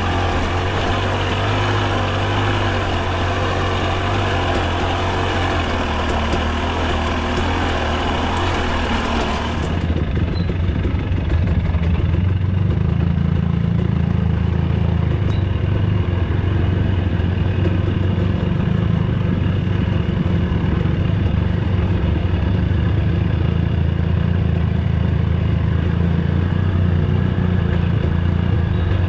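Dirt bike engine running steadily. A bright hiss over it cuts off suddenly about ten seconds in, leaving the engine's low hum stronger.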